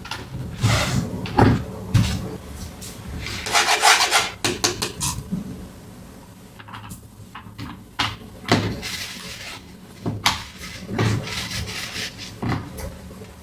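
Hands unboxing a toy playset: cardboard and plastic packaging rubbing and rustling, with light knocks and taps at irregular intervals and a longer rustle about four seconds in.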